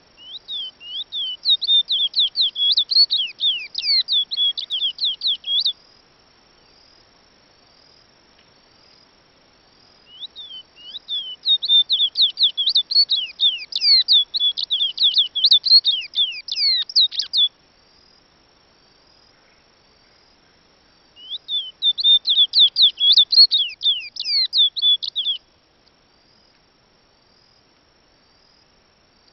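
A songbird singing three long bouts of rapid, sliding whistled notes, separated by pauses of a few seconds. A thin steady high-pitched insect trill runs underneath.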